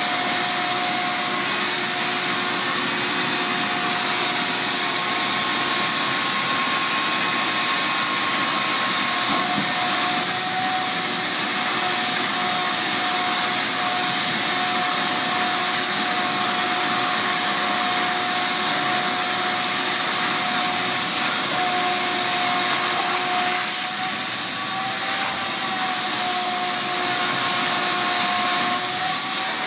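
Vacuum cleaner running steadily, a continuous rushing noise with a faint steady whine.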